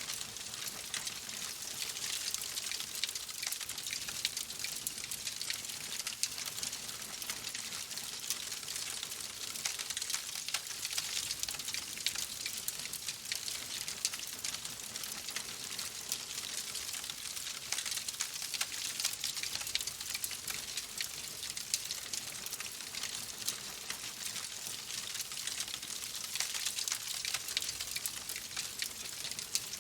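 Wood fire crackling in a fireplace: a steady hiss thick with small, quick pops.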